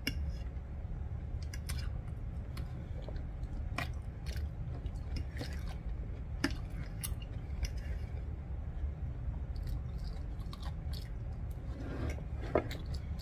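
Close-miked chewing of soft gravy-soaked fries, with occasional light clinks and scrapes of a metal fork against a ceramic plate.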